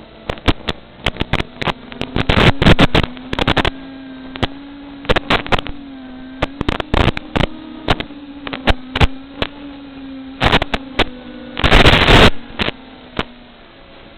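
FPV drone motors running with a steady hum that drifts slightly in pitch, broken by frequent sharp crackles and pops, with a louder burst of crackle lasting about a second near the end.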